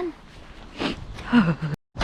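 A woman's breath and a short sighing vocal sound falling in pitch, then the audio cuts out to dead silence for a moment near the end.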